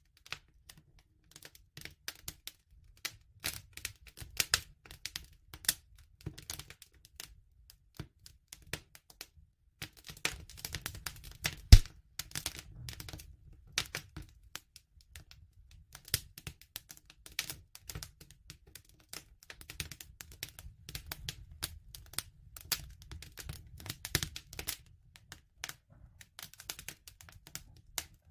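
Wood fire crackling: irregular sharp pops and snaps over a low rumble of burning, with one louder pop about twelve seconds in.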